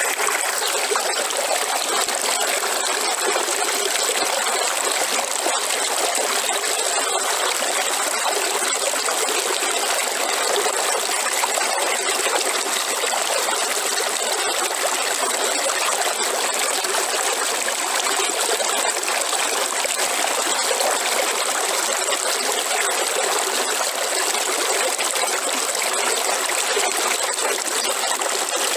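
River water flowing: a steady, unbroken rushing with a thin high hiss running through it.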